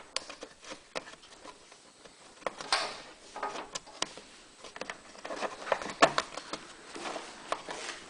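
Hand work on a plastic generator case: irregular clicks, taps and short scrapes as it is trimmed and handled, with a sharp click about six seconds in as the loudest.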